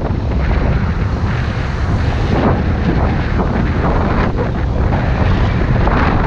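Heavy wind buffeting the microphone on a moving motorbike, in uneven gusts over a steady rumble of the bike and road.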